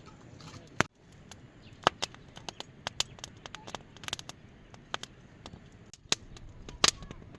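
Irregular sharp clicks and knocks, about a dozen, the loudest about a second in and near the end, over a faint steady hiss.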